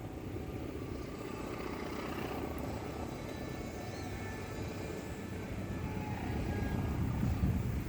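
Approaching train: the low, steady rumble of a diesel locomotive, growing louder toward the end.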